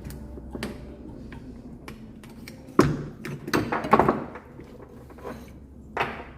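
Knocks and clatter of tools and metal engine parts being handled, with one sharp knock a little under three seconds in, a quick cluster of knocks about a second later, and one more near the end, over a steady low hum.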